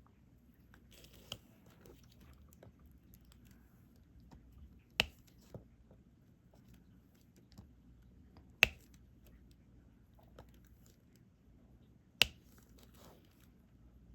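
Diamond painting drills being picked up and pressed onto the canvas with the applicator pen: three sharp clicks about three and a half seconds apart, with faint ticks and light rustling between.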